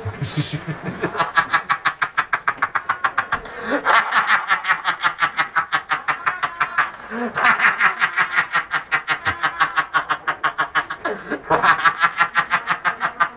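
A rapid chattering pulse, about seven pulses a second, coming in runs of three to four seconds with brief breaks between them. It sounds laugh-like and is presented as a deep-sea recording.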